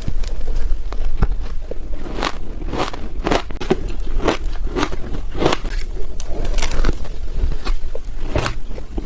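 Ice dusted with matcha powder being bitten and chewed close to the microphone, a sharp crunch coming every half to three-quarters of a second.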